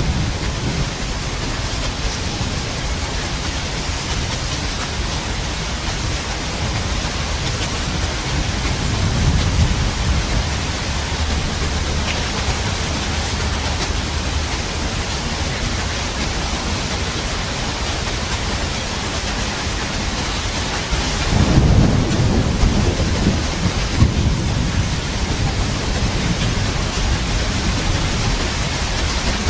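Steady heavy rain falling, with thunder rumbling twice: a low swell about a third of the way in, and a louder, longer roll about two-thirds of the way in.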